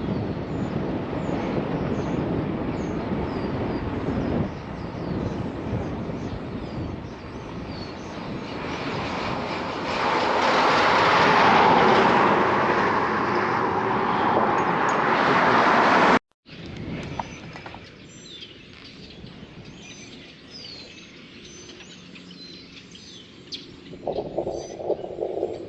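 Steady rushing wind and road noise, swelling louder toward a peak, then cut off abruptly about two-thirds of the way in. After the cut, small birds chirp repeatedly over a quiet outdoor background, with a few soft knocks near the end.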